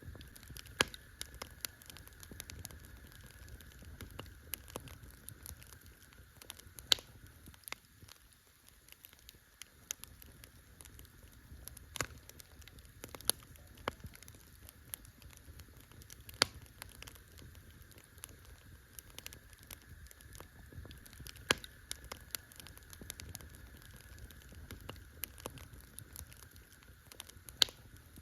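Wood campfire crackling: irregular sharp pops and snaps, a handful of them much louder than the rest, over a soft low rumble of burning.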